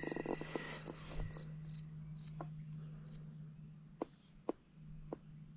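Crickets chirping in a quick regular rhythm, the chirps thinning out and stopping about three seconds in, so the night falls suddenly quiet. A few sharp ticks follow near the end.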